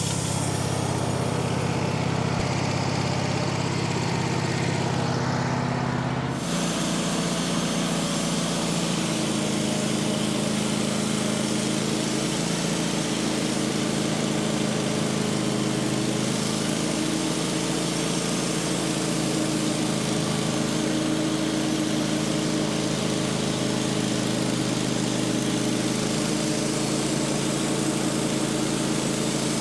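Sawmill's engine running steadily; about six seconds in the sound changes abruptly to a different steady pitch.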